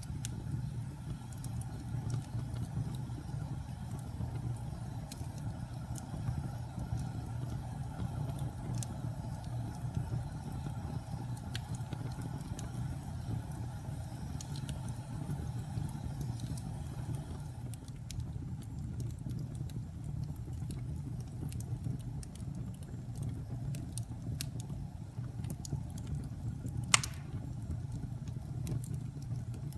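Fire burning, with a steady low rumble under scattered small crackles and pops; one sharper, louder pop near the end.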